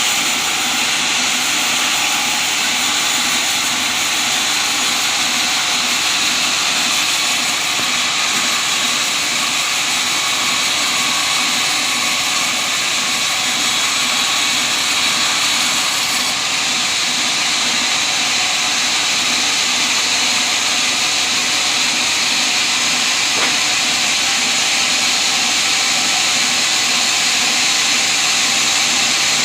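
Sawmill running steadily as it cuts teak wood into beams, giving an even, loud hiss with a faint low hum underneath.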